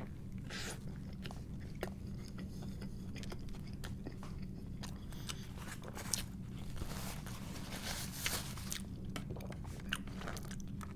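Close-miked biting and chewing of a burger stacked with onion rings and fries: crisp crunches and small wet mouth clicks, over a steady low hum.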